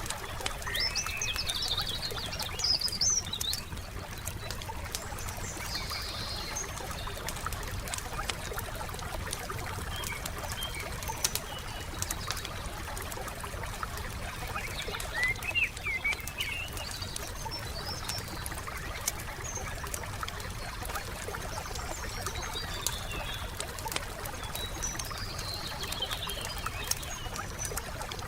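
Wood fire crackling, with frequent sharp pops, over a steady low hiss. Small birds chirp in short bursts several times.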